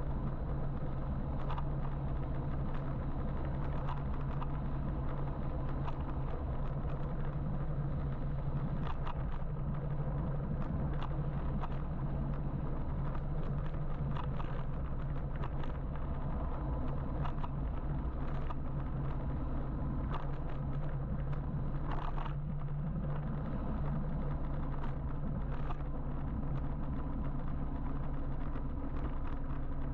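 Steady wind and road noise from riding an electric motorbike, with a constant low hum and scattered faint clicks.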